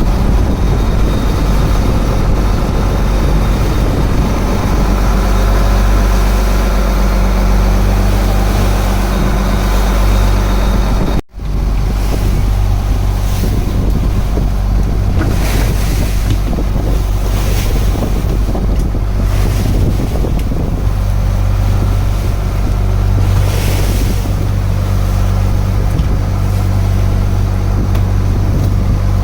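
Wooden fishing boat's engine running with a steady low drone, with wind on the microphone and sea noise over it. It cuts out for an instant about eleven seconds in.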